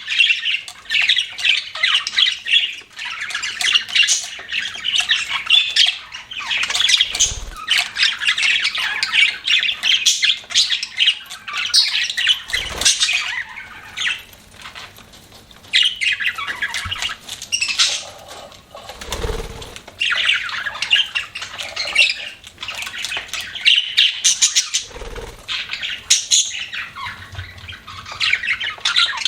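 Budgerigars chattering and chirping in a busy, continuous warble of quick squawks and tweets, with a brief lull about halfway through. A few soft low thumps come between the calls.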